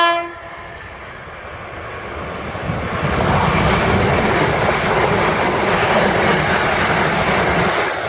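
A train sounds a short horn blast at the very start, then an electric passenger train approaches and runs past, its wheels and running noise growing louder over the first three seconds and staying loud and steady after that.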